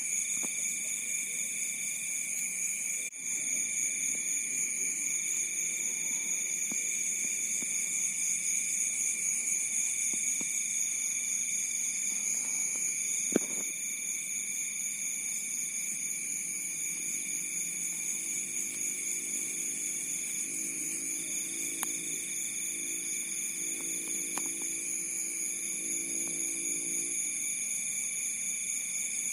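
Night chorus of crickets: several steady high trills at different pitches, one of them cutting in and out every second or two. A single sharp click about 13 seconds in, and a faint low drone underneath in the second half.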